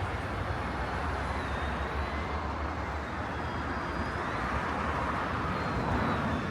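City street traffic: a steady wash of passing cars and other vehicles. A heavy low engine rumble eases off about halfway through.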